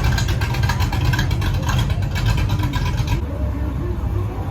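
A car's engine running loudly through its exhaust in a fast even pulse; about three seconds in the sharper high part of the sound drops away, leaving a lower engine sound.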